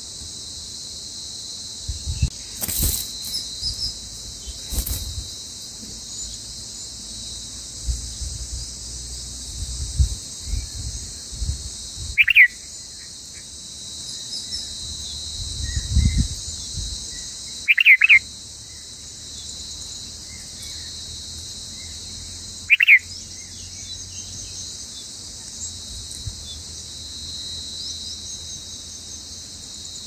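Red-vented bulbul nestlings begging at the nest: three short, loud chirps about twelve, eighteen and twenty-three seconds in, the first as the chicks gape for food. A steady high insect drone runs underneath, with occasional low rumbles.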